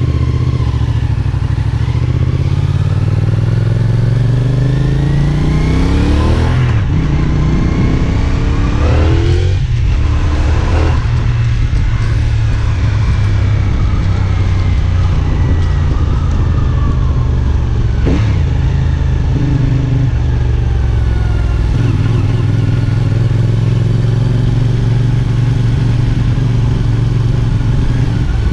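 CFMOTO 450SR S's parallel-twin engine under way, revving up through the gears: the pitch climbs and drops at a shift about seven seconds in and again near ten seconds, then the engine runs steadier with the pitch slowly falling.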